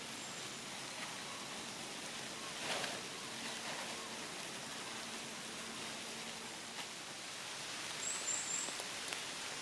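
Steady outdoor hiss, rain-like, with a short rustle about three seconds in and a few brief high bird chirps near the end.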